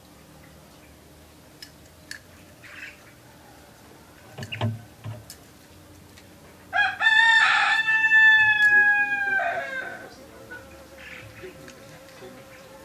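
A rooster crows once, a single long call of about three seconds that falls a little at the end. A few soft knocks come a couple of seconds before it.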